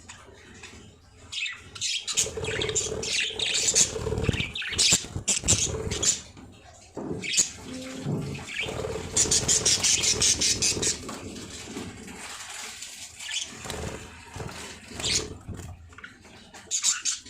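Baby birds squawking and chirping in loud, rapid bursts, with rustling and scuffling between the calls.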